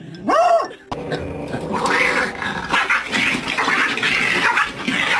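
A dog growling in a long, uneven run. A brief high pitched call comes just before it, about half a second in.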